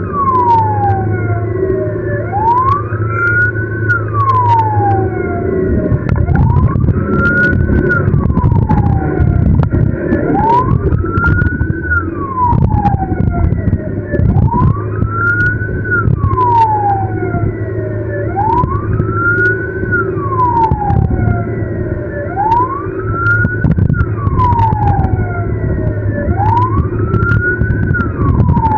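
Ambulance siren on a slow wail, its pitch rising and falling about once every four seconds, over steady engine and road rumble, with scattered short clicks.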